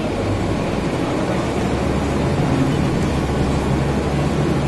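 Mercedes-Benz O405N city bus heard from inside the cabin: the rear engine pulls with a steady low hum under the air-conditioning's blowing rush. The engine note strengthens just as the sound begins, then holds steady.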